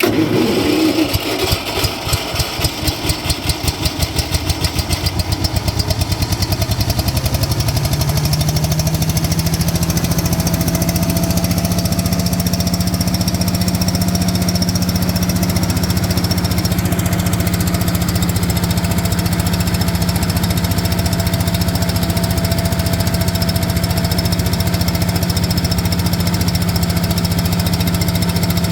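1993 Toyota sweeper truck's engine running: for the first several seconds it pulses unevenly, then a steady hum rises in pitch at about seven to eight seconds and holds steady.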